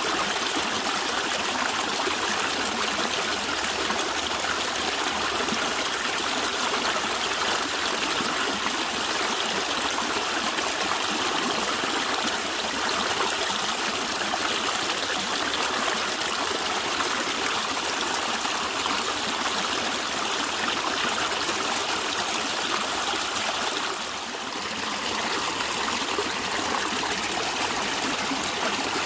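A small stream flowing and gurgling steadily over rocks.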